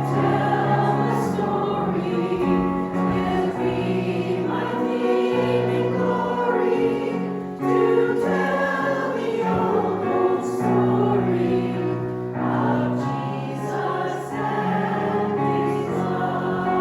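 A choir singing a hymn, many voices holding sustained notes that change every second or so.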